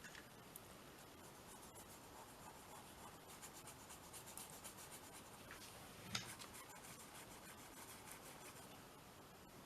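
Pencil scratching across paper in quick back-and-forth strokes as an area is coloured or shaded, faint, with one short tap about six seconds in.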